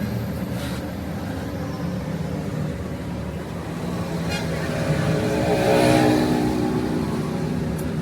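A motor vehicle engine running steadily, swelling louder about five to six seconds in.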